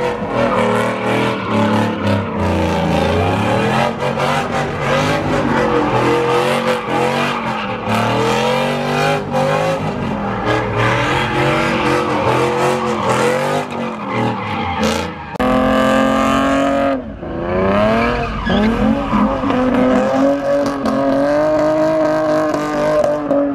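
Car engines revving hard, the pitch swinging up and down again and again, with tyre squeal from cars spinning donuts. About two-thirds of the way through there is a sharp, loud rev that climbs in pitch.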